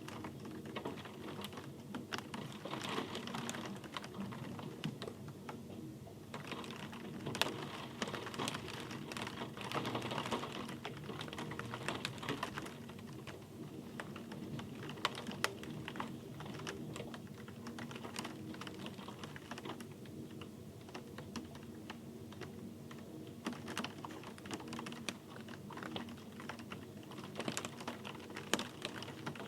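Rain falling, with a dense stream of irregular drops tapping sharply close by over a steady hiss.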